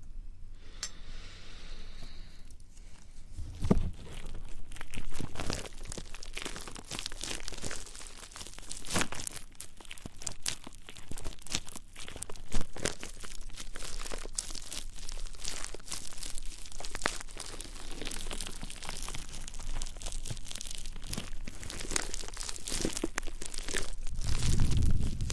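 ASMR triggers rubbed and scratched right against the microphone: a dense, continuous crackle of small scrapes and crinkles, with a low thump near the end.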